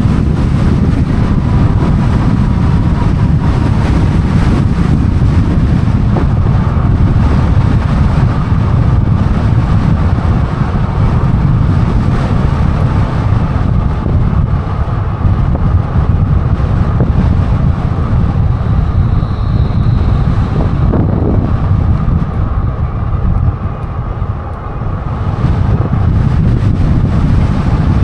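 Wind rushing over the microphone of a camera on a moving Lectric XP e-bike, with a steady faint whine through the rush. The wind noise eases for a moment about four-fifths of the way through, then comes back.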